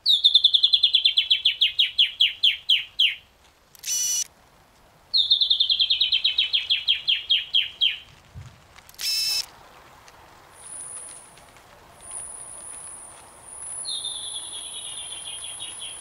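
A rainforest bird singing a fast trill of clear notes that slides down in pitch over about three seconds, given three times. Two short buzzy calls come between the trills, and a steady high-pitched whine sets in about ten seconds in.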